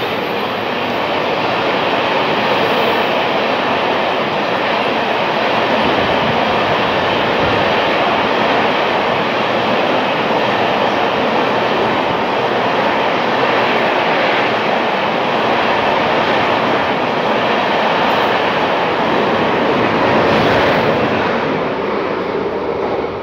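Express train of LHB passenger coaches passing through a station at speed: a loud, steady rumble of wheels on rails. It eases near the end as the last coach goes by.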